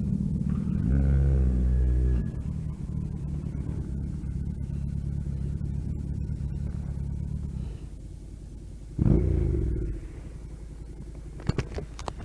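Motorcycle engine running at low speed, with a short rev about a second in, then running steadily. It drops off near eight seconds, gives another brief rev around nine seconds, and a few sharp clicks follow near the end.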